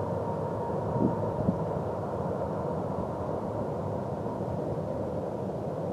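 Covered hopper cars of a loaded grain train rolling past on the rails: a steady rumble of wheels with a faint steady high tone underneath. Two short knocks come about a second and a second and a half in.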